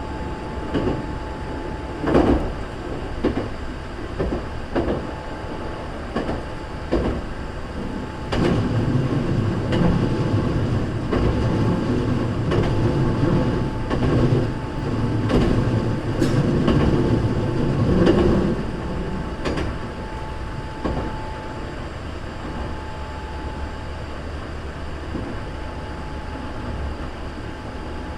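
Hankyu 3300 series electric train running, its wheels clicking over rail joints. A louder, rumbling stretch comes from about eight to nineteen seconds in, then the running settles to a quieter, even sound.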